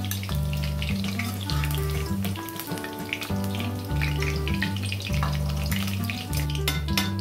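Cauliflower florets deep-frying in hot oil in a steel wok, a continuous crackling sizzle. Background music with a steady, stepping bass line plays over it.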